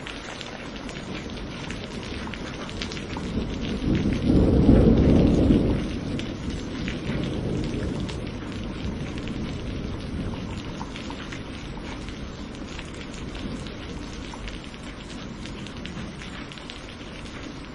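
Steady rain falling, with fine patter of drops, and a roll of thunder that swells about four seconds in, peaks for a couple of seconds and rumbles away over the next few.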